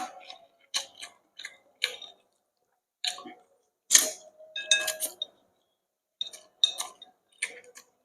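Dishes and utensils clinking: a series of short, irregular clinks and taps, some ringing briefly, with silent gaps between them.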